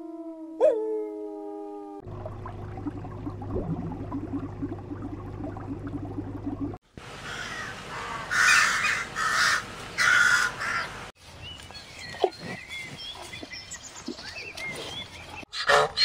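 A wolf's drawn-out howl fades out about two seconds in. Later, a crow caws loudly several times in quick succession.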